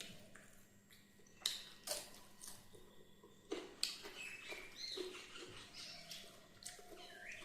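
A person chewing chicken close to the microphone: scattered wet smacks, lip clicks and faint squelchy squeaks.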